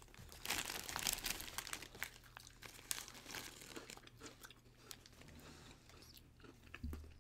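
Crunchy Pepero biscuit sticks coated in frosting and cookie bits being bitten and chewed at close range: a dense run of crisp crunches in the first few seconds, thinning to scattered bites and chews. A dull bump sounds shortly before the end.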